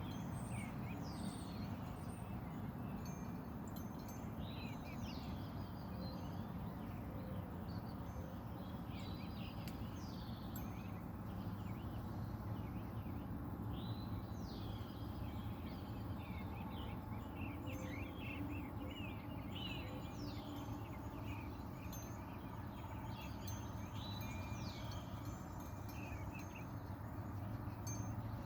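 Several wild birds chirping and calling in a mixed chorus of short, quick notes, many of them sweeping downward, over a steady low background rumble.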